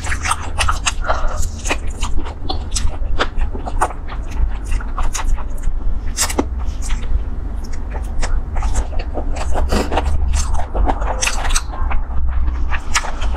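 Close-up eating sounds of a person chewing and sucking on chicken feet: irregular wet clicks and smacks, several a second, over a steady low hum.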